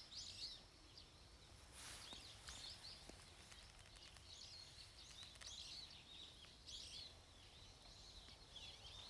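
Faint bird chirps, short high calls repeating every second or so, over a low steady outdoor rumble.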